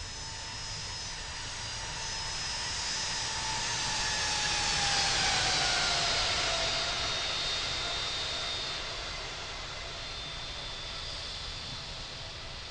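Boeing 757's Rolls-Royce RB211 jet engines passing by on landing, a loud jet rush with a high whine. It grows louder to a peak about five seconds in, the whine drops in pitch as the plane goes past, and then it fades.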